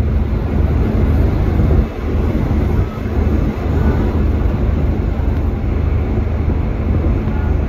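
Strong wind buffeting the microphone aboard a moving ferry: a loud, continuous low rumble that surges and dips.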